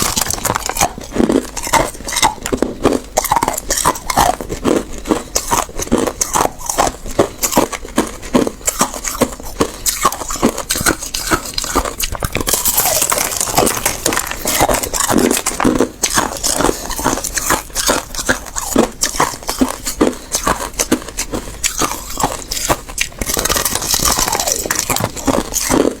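A person biting and chewing ice close to the microphone: rapid, irregular crunches with no pause, with sharper, hissier crunching twice, about halfway through and again near the end.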